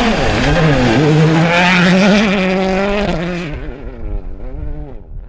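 Rally car passing at full speed, its engine revving up and down through gear changes, then fading away as it leaves.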